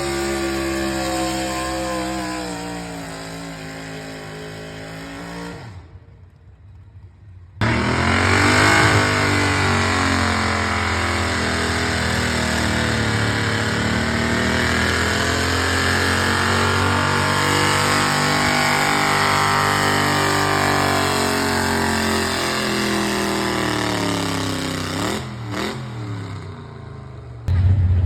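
Engine of a truck-pull puller running flat out under load, its pitch sagging and climbing as it works. It winds down about six seconds in, and after a brief drop-out a second high-revving run starts abruptly and falls away near the end.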